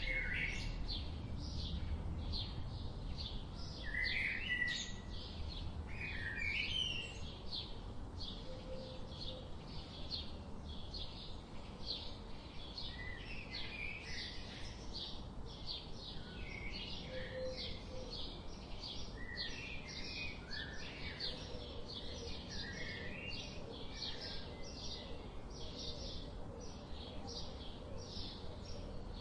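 Birds chirping: a quick, steady run of short high chirps with other, lower calls rising in pitch over it, above a faint low steady hum.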